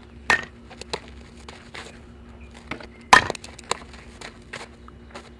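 Two sharp cracks of a softball striking something, about three seconds apart, with fainter clicks between them.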